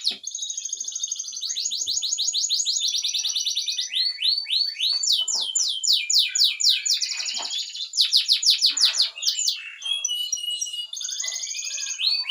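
Domestic canary singing a loud, continuous song of fast trills, each a rapid run of repeated sweeping notes, switching to a new trill every second or two.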